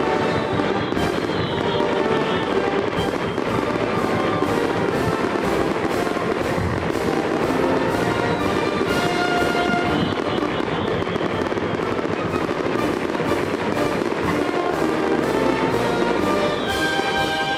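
Aerial fireworks bursting and crackling in a dense, continuous string of sharp pops, with music playing alongside.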